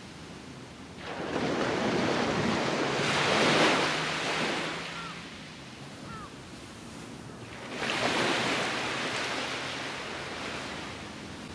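Ocean surf breaking on a beach: one wave crashes about a second in, builds and washes up the shore, and a second wave breaks about eight seconds in.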